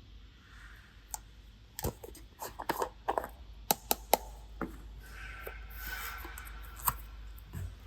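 Crafting handling noises: a quick run of sharp clicks and taps, then a soft scraping.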